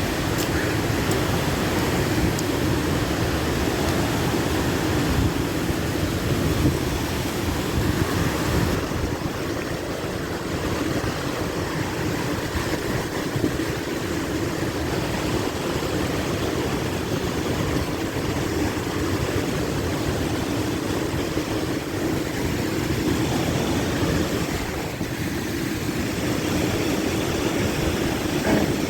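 A waterfall's water rushing and splashing down in a loud, steady, unbroken noise.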